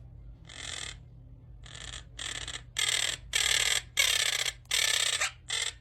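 Pet parrots screeching: a run of about eight harsh squawks, each under half a second, coming closer together and louder from about three seconds in.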